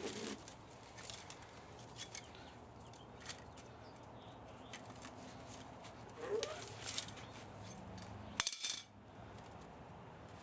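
Scattered small clicks and clinks of hand tools and metal parts being handled while an old spa motor is taken apart for scrap, with one louder sharp clink about eight and a half seconds in.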